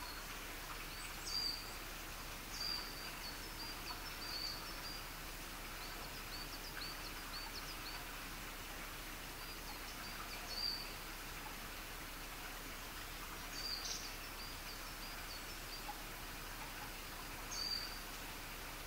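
Small birds chirping in short, high-pitched calls every few seconds, the loudest about a second and a half, ten and a half, and near the end, over a steady outdoor hiss.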